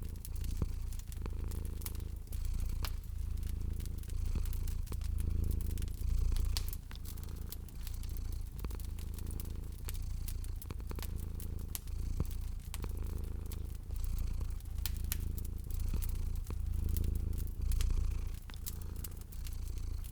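Domestic cat purring steadily, the low rumble swelling and fading about once a second with each breath, over a wood fire crackling with frequent small sharp pops.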